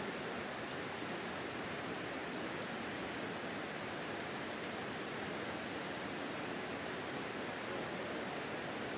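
Wood campfire burning: a steady rushing hiss with no loud pops.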